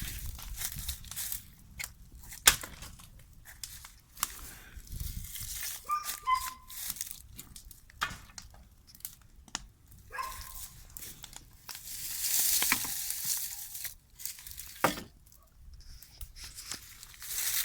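Paper and cardboard trash being crumpled and torn, with irregular sharp cracks, one louder crack about two and a half seconds in, and a longer stretch of rustling and tearing near the middle.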